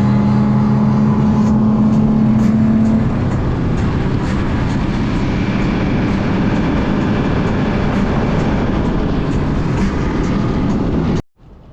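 Boat engine running loud and steady under way, with a rush of wind and water over it; one of its low tones stops about three seconds in. Near the end it cuts off suddenly to much quieter wind noise.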